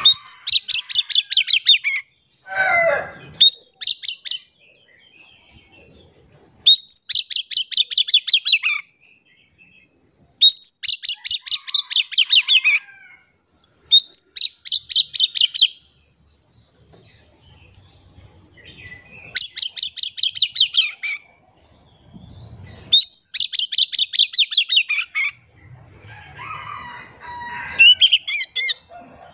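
Oriental magpie-robin (kacer) singing loudly, in repeated bursts of fast, high trilled notes, each lasting one to two seconds, with short pauses between them.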